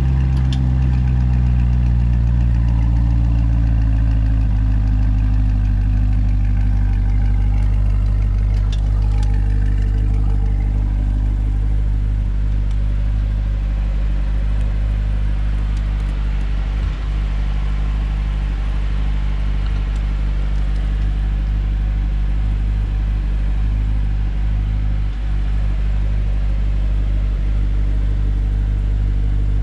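2020 Chevrolet Corvette C8's 6.2-litre LT2 V8 idling just after a cold start. The fast idle drops in the first few seconds, then the engine runs at a steady idle.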